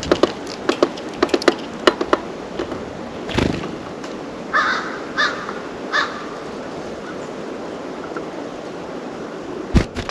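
Sharp taps and clicks at a bird feeder in the first couple of seconds, then three harsh calls from a corvid, crow or jay, a little under a second apart, and a thump near the end.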